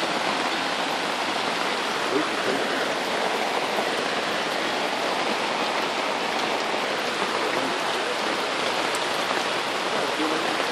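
Steady rain falling on a tarp canopy overhead and on the wet ground around it.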